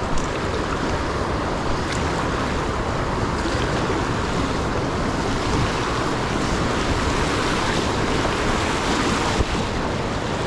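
Rushing river rapids around a small fishing kayak being paddled upstream: a steady, even wash of moving water.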